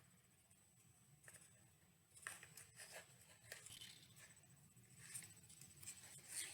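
Near silence with faint rustling and light clicks of string being threaded and tied to a cardboard tube, starting about two seconds in.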